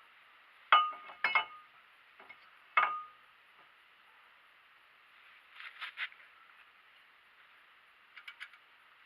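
Metal tools and parts clinking against metal: three sharp, ringing clinks in the first three seconds, then two short clusters of lighter rattling taps, one near the middle and one near the end.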